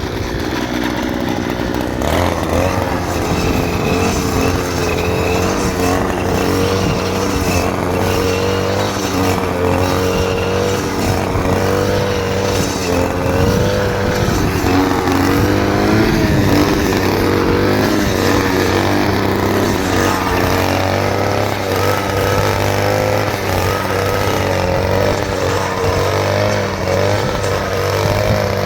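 A small engine running steadily throughout, its pitch wavering slightly, with a louder, fuller note from about two seconds in.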